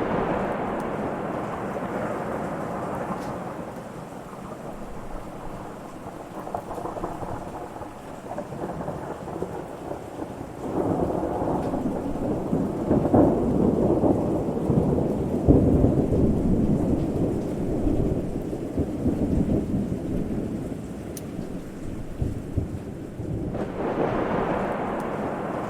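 Thunder rumbling over steady rain, rolling in waves: one swell at the start, a long louder roll from just under halfway through to about three quarters of the way, and another building near the end.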